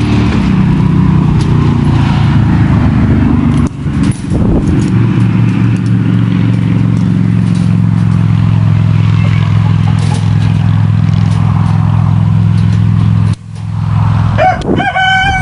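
A steady low motor hum like an idling engine, which breaks off briefly twice. Near the end a rooster crows, a rising call held on one pitch.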